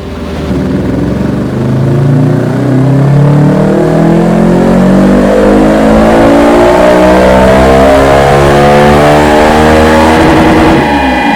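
2024 Rieju Aventura 500 parallel-twin with a Dominator aftermarket exhaust, pulling under load on a dyno: the exhaust note climbs steadily in pitch for about ten seconds, then drops sharply as the throttle is shut near the end.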